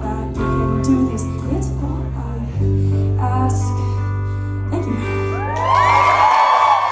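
Live band with guitar, bass and vocals playing out the closing held chord of a rock song. About five and a half seconds in, the audience breaks into whooping and cheering as the music ends.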